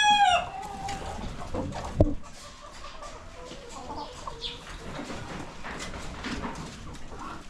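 A rooster's crow ends with a falling tail about half a second in, followed by quieter chicken clucking and scratching around. A single sharp knock about two seconds in is the loudest moment after the crow.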